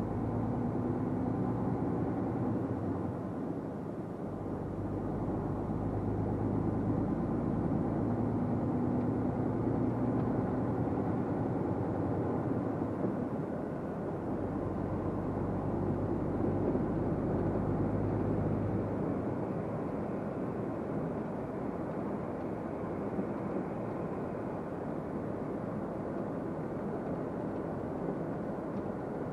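Truck engine running and road noise heard from inside the cab while driving, a steady low hum that eases a little about two-thirds of the way through.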